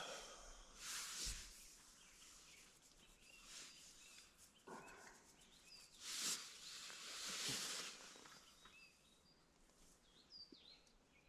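Faint bird chirps, short and scattered, over soft swells of noise that peak a little past the middle.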